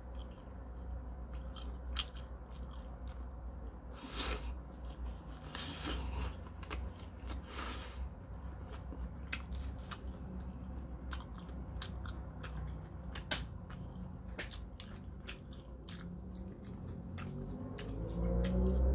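Close-up eating sounds of a person chewing and biting into a king prawn: wet mouth smacks and clicks, with louder crunches about four, six and eight seconds in.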